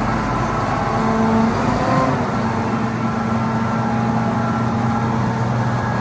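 Case IH 7130 combine's diesel engine running steadily at a constant speed.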